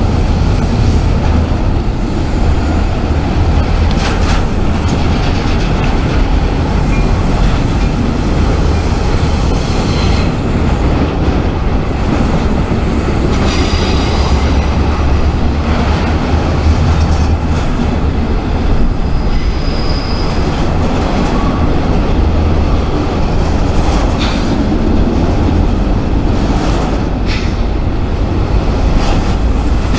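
Freight train cars rolling past with a steady heavy rumble, wheels clicking over rail joints and a few brief high wheel squeals.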